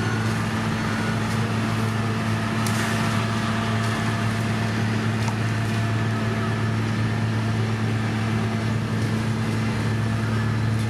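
Diesel engine of heavy road-construction machinery running at a steady speed, a constant low hum with no revving.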